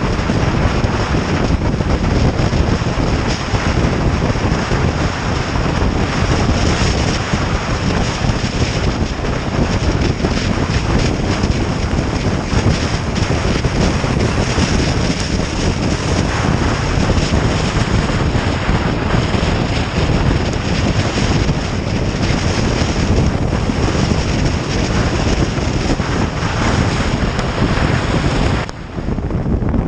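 Heavy wind buffeting the microphone on a moving motorcycle, mixed with engine and road noise, steady throughout with a brief drop in level just before the end.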